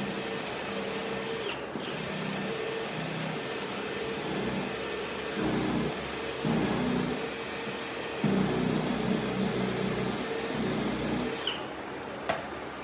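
Electric power tool running steadily with a whine, its sound deepening and growing louder in several stretches as it works into wood, then switching off; a single sharp click follows near the end.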